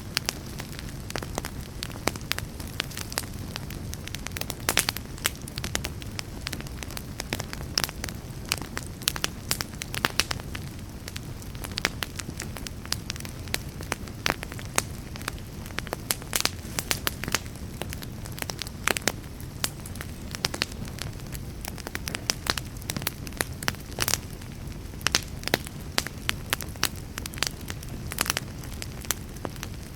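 Fire burning in a fireplace, crackling with frequent irregular sharp pops over a steady low rumble of the flames.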